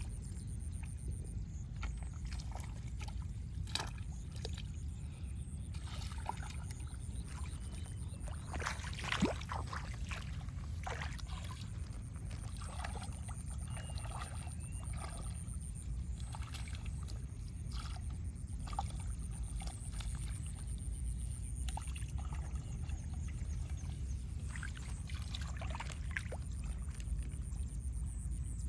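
Water splashing and sloshing in scattered short strokes, the loudest about nine seconds in, over a steady low rumble.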